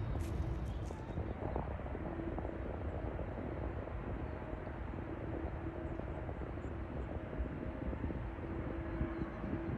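Jet airliner engines heard at a distance: a steady low rumble with a faint hum.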